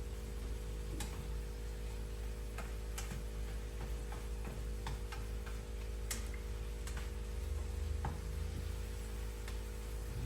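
Chopped vegetables cooking in a frying pan: scattered, irregular crackles and pops over a steady low hum.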